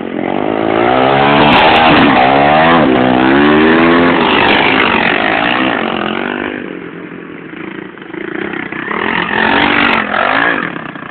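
Pit bike engine revving up and down as the bike rides, loudest in the first few seconds, dying down about seven seconds in, then revving up again near the end.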